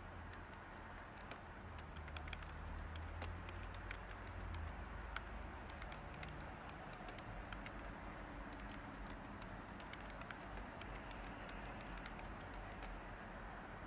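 Light typing on a computer keyboard: irregular, scattered key clicks over a steady background hiss and low hum.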